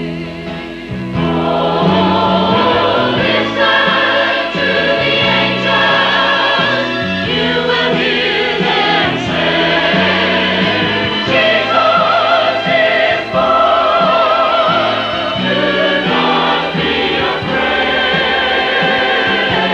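Church chancel choir singing in parts, holding notes with vibrato, with accompaniment underneath.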